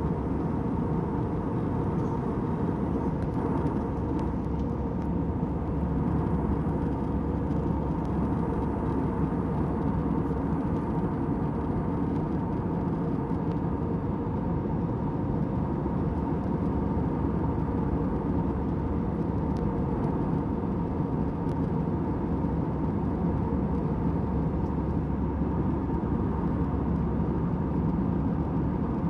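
Steady airliner cabin noise in flight: a low, even rush of engines and airflow with a faint constant hum.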